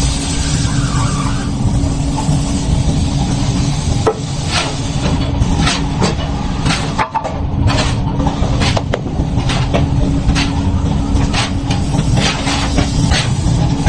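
Workshop noise: a steady low machine rumble with a faint hum, and from about four seconds in a run of sharp, irregular metal knocks and clanks.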